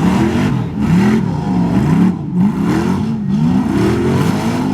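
Off-road truck engine revving hard, its pitch rising and falling again and again as the throttle is worked on and off.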